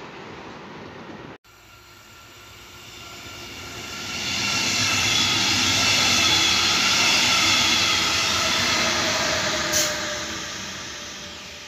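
Electric push-pull regional train of double-deck coaches, pushed by a red DB electric locomotive, passing at speed. Wheel and rail noise builds, peaks with a steady whine over it, and fades as the train moves away. There is one sharp click about ten seconds in.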